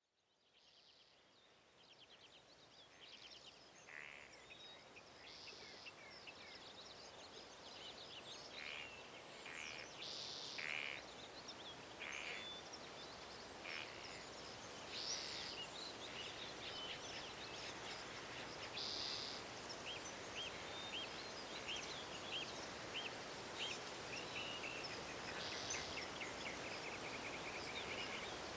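Forest ambience: several birds calling and singing in short phrases and trills, including a run of quick repeated notes, over a steady background hiss. It fades in over the first several seconds.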